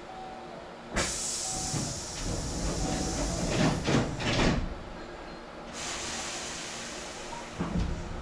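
Hankyu 6300-series train standing at a station: a sudden blast of compressed-air hiss about a second in, with several door clunks around four seconds in. A second long air hiss starts about six seconds in, with another knock near the end.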